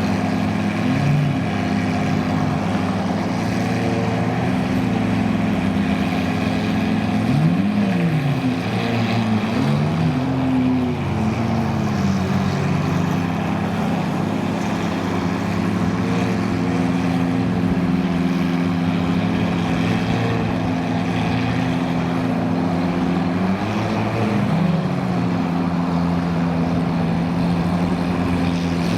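Supercar engines idling, with short throttle blips where the pitch rises and falls, about eight seconds in, again around ten seconds, and near the end.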